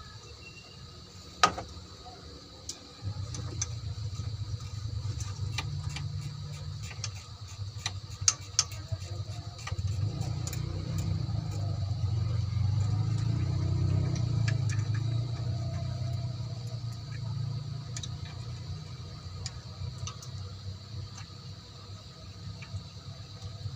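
Low engine hum that starts about three seconds in, swells and then fades away, with scattered small metal clicks and one sharp clink early on.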